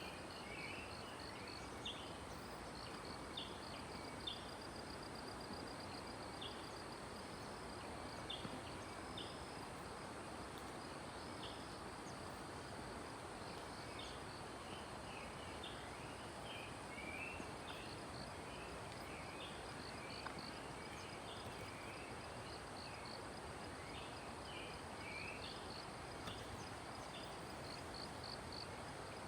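Forest birds calling with many short chirps over a steady rush of flowing stream water, with a continuous high insect whine and a rapid pulsing trill above it.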